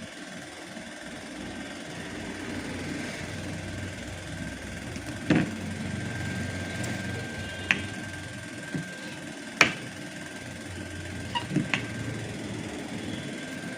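Washing machine motor and gearbox running with a steady hum, with a thin steady whine joining about five seconds in. Several sharp knocks break through it, with a quick cluster of three near the end.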